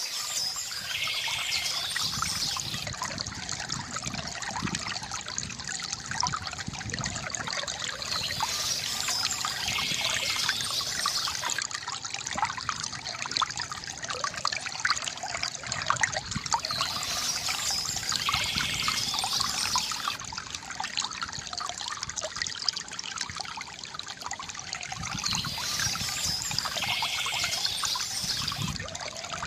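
River water gurgling and trickling steadily, with a short higher-pitched sound that recurs about every eight to nine seconds.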